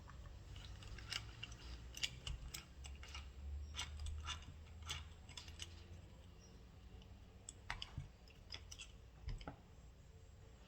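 Irregular clicks and light taps of small metal parts being handled while a car starter motor is taken apart and reassembled, over a low hum.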